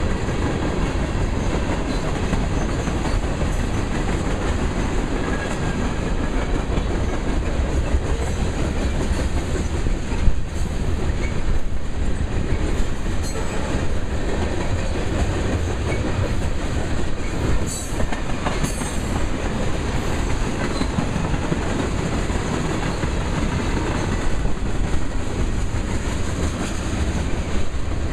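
Freight train of loaded tank cars rolling past at speed: a steady low rumble with the clatter of steel wheels over the rail joints, and a few sharp clanks about ten seconds in and again a little past halfway.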